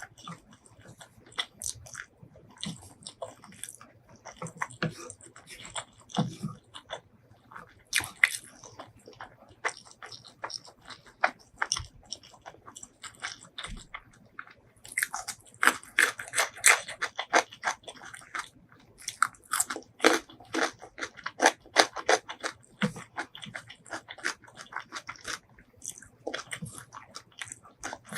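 A person chewing and biting food close to the microphone, with wet clicks and crisp crunches. The crunching comes thickest and loudest about halfway through.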